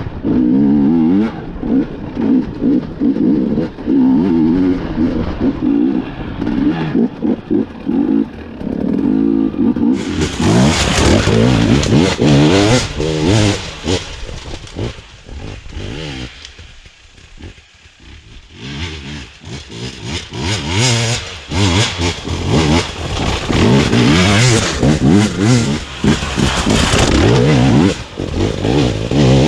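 KTM 250 EXC two-stroke enduro motorcycle engine revving hard, its pitch climbing and dropping again and again as the rider accelerates and shifts. About ten seconds in the sound turns suddenly brighter and harsher; it falls away briefly around seventeen seconds in, then revs back up.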